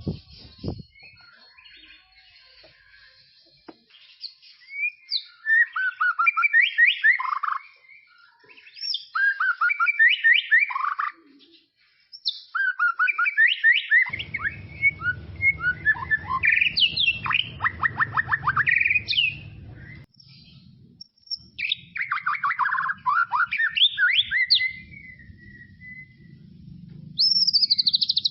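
White-rumped shama (murai batu) singing: a string of varied, rapid whistled and chattering phrases with short pauses between them. A low steady hum runs under part of it.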